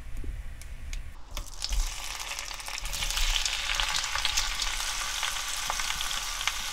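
Wet, blanched dried Korean squash slices hitting hot oil in a frying pan as they are tipped in from a colander: a sizzle begins about a second in and grows into a steady crackling hiss with many small pops as more slices go in.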